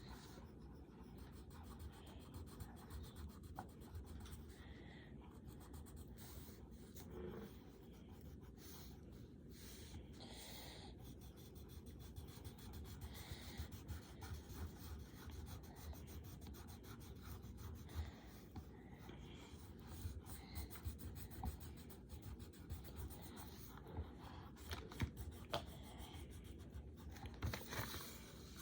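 Faint scratching of coloured pencils on paper: irregular strokes as the drawings are coloured in.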